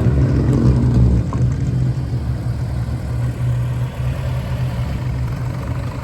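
Showa-era Nissan Skyline's exhaust at idle: a steady, low engine note, slightly louder in the first second as it settles.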